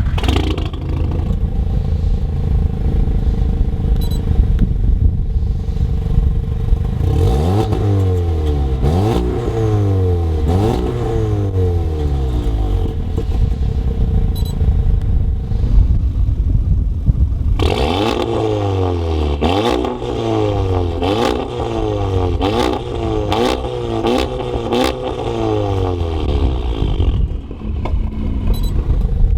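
Audi S3 8V's turbocharged 2.0-litre four-cylinder through an Armytrix valved exhaust, idling and then blipped in two sets of free revs: three revs, a pause at idle, then a faster run of about six, each rising and falling in pitch. Sharp cracks come on the overrun between the later revs.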